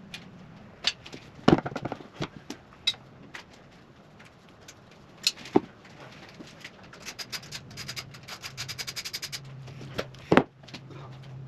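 Hand tools clicking and knocking on a dirt bike's frame and fittings as its radiators are unbolted. A little past the middle comes a run of rapid, evenly spaced ratchet clicks, and a sharp knock follows near the end.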